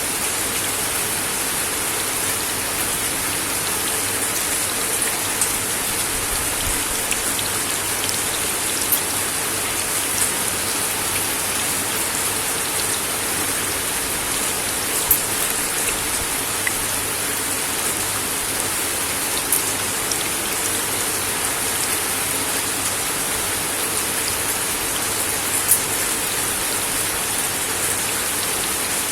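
Steady rain falling on a wooden deck, an even hiss with scattered louder individual drop ticks.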